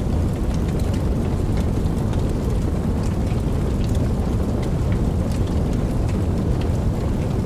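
Steady rain with a deep, even low rumble, and scattered sharp ticks of individual drops throughout.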